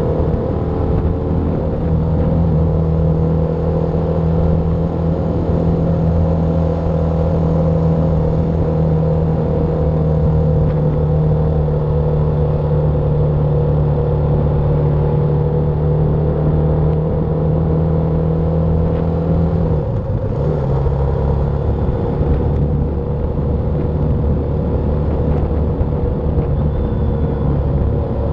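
BMW G310R motorcycle's single-cylinder engine running steadily while riding, its note holding a constant pitch. About two-thirds of the way through the note dips briefly and settles a little lower.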